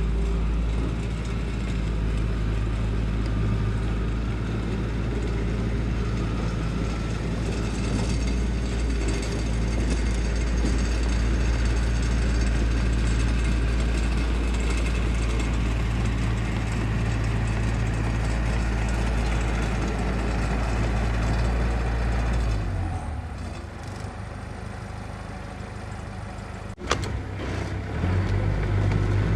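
Heavy construction machine's diesel engine running steadily with a low hum. About 23 seconds in the engine sound drops away, a single sharp knock follows, and the engine sound returns near the end.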